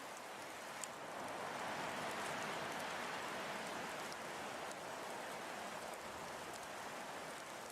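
Storm wind gusting, swelling about a second in and easing off over the next few seconds, with faint scattered ticks.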